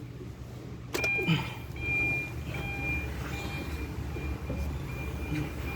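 A vehicle's electronic warning chime beeping over and over in short, even beeps, over a steady low hum. It starts with a click about a second in.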